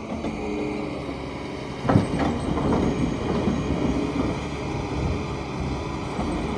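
Diesel engine of a JCB 3DX backhoe loader running under load, with a heavy thud about two seconds in followed by a few seconds of rattling clatter, as a bucket-load of mud drops into the steel bed of the dump truck.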